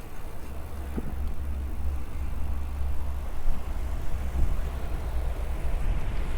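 Steady low rumble of wind on the microphone and tyre noise from an electric bike riding along a paved trail, with a couple of faint ticks.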